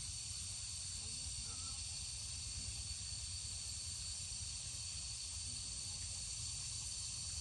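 Steady high-pitched drone of an insect chorus, with a constant low wind rumble on the microphone.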